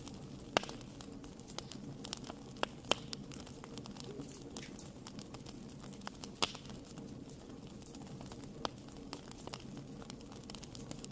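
Wood fire crackling in a fireplace: a steady scatter of small snaps with a few sharper pops, the loudest about half a second in and around six and a half seconds, over a low, steady rumble of burning.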